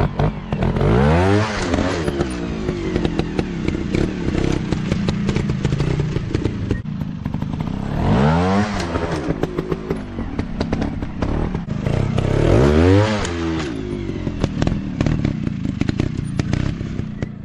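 Motocross dirt bike engines running hard, the pitch climbing and then dropping three times as the throttle is opened and let off, with a constant rattle and crackle.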